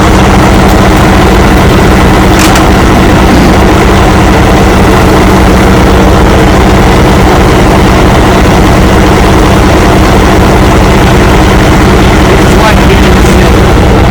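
Truck engine idling steadily, loud and close, an even drone that does not change speed.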